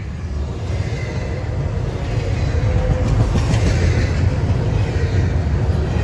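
Train passing: a steady low rumble that grows louder over the first few seconds, then holds.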